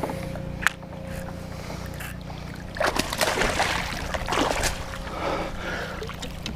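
Steady wind rumble on the microphone, with a stretch of rough splashing and rustling noise from about three seconds in as a hooked largemouth bass is fought at the water's edge.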